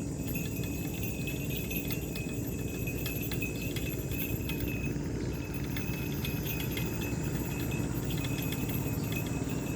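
Fishing reel being wound in against the weight of a hooked fish, with many small irregular clicks and light jingling over a steady low rumble.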